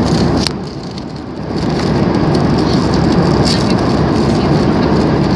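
Steady engine and airflow noise heard inside an airliner cabin, dipping briefly about half a second in and rising back a second later.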